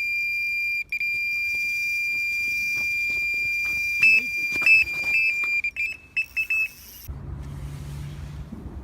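Electronic carp bite alarm screaming with one continuous high tone as a fish takes line on a run. About four seconds in it breaks into rapid separate beeps with some knocks, then stops about seven seconds in. A low steady hum follows.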